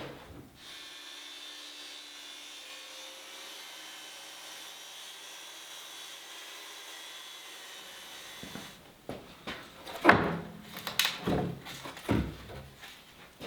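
A faint steady hum, then about two-thirds of the way in a run of loud, irregular wooden knocks and scraping as wood is worked or handled.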